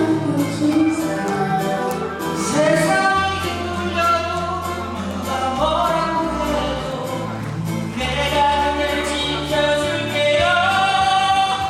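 A love song sung with instrumental backing: a singing voice over sustained bass notes that change every second or two.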